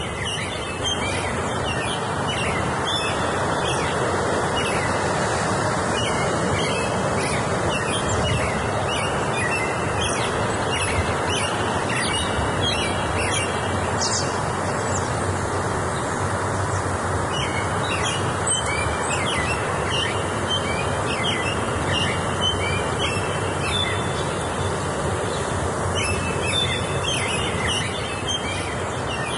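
Wild birds singing, short high phrases repeated in clusters, over a steady rushing background noise.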